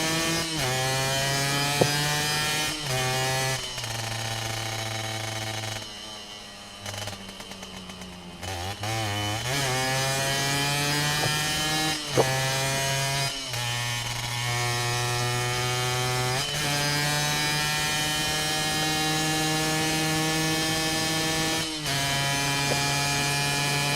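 Sport bike engine accelerating hard, revving up and shifting up through the gears several times, each shift a short break before the pitch climbs again. About six seconds in it eases off and runs quieter for a couple of seconds before pulling hard again.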